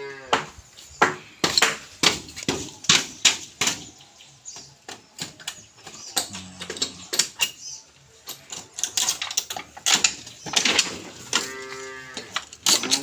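Cattle mooing a few times: a low call about halfway through and a longer, higher call near the end, over a steady run of sharp knocks.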